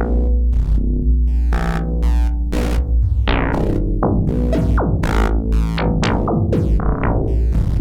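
Dreadbox Typhon analog monophonic synthesizer playing a factory preset: a repeating pattern of short, bright plucked notes at about two a second, with quick downward sweeps on the notes in the middle, over a steady deep bass.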